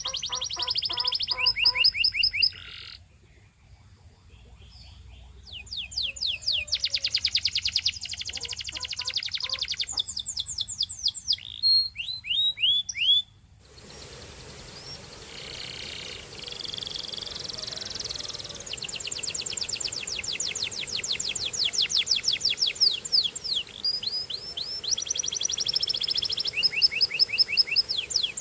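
Canary singing: long trills, each a fast string of repeated high notes, broken by short pauses. About halfway through, the background hiss becomes louder.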